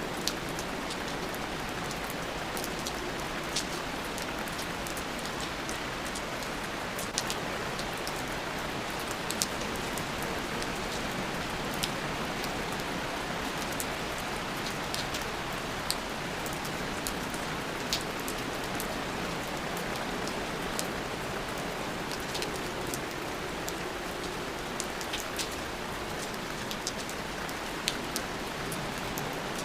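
Steady rain with scattered individual drops ticking sharply on a surface throughout.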